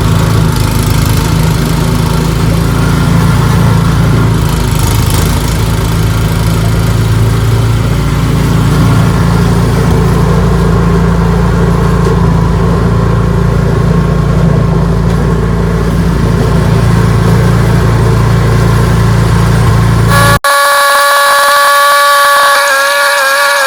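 Ariens 624E snowblower's engine running steadily under load. About 20 seconds in it cuts off abruptly and a higher, slightly wavering steady tone takes over.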